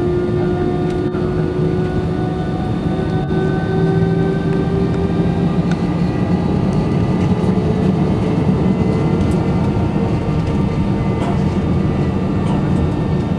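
Airbus A320-200 jet engines running, heard inside the cabin: a steady loud rumble with several steady tones that slowly rise in pitch.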